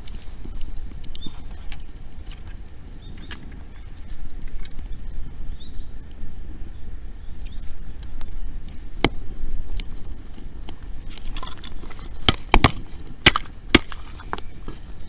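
Wood campfire crackling, with scattered sharp pops and a cluster of loud cracks near the end, over a steady low rumble.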